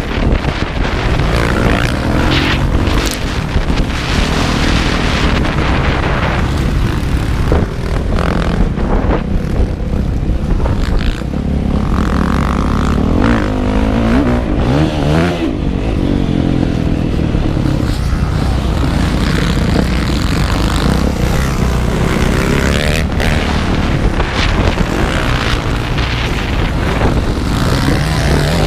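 Motocross bike engine revving up and down as it is ridden around the track, heard from on board, under a steady rushing noise.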